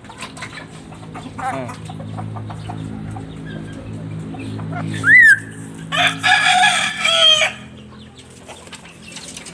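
Bird calls: a short falling call, then a sharp rising whistle about five seconds in, followed by a harsh call lasting about a second and a half, the loudest sound, over a low steady hum.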